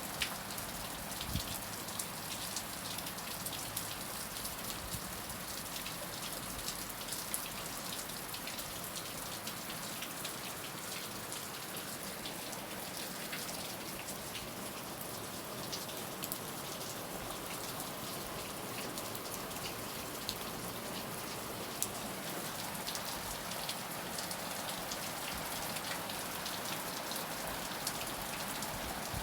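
Heavy rain falling steadily: a constant hiss dotted with many sharp drop impacts.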